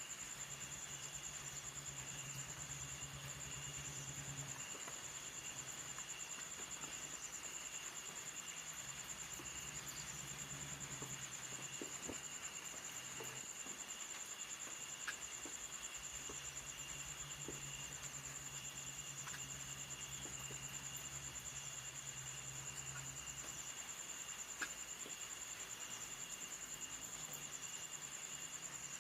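Insects trilling in a steady, high-pitched chorus, with a second, lower trill dropping in and out. A low pulsing drone comes and goes underneath, and there are two faint clicks.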